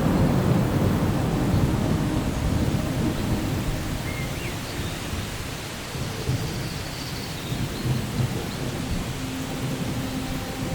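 Thunder rolling over steady rain: a long low rumble that swells right at the start and dies away over about six seconds, then a smaller rumble near the end.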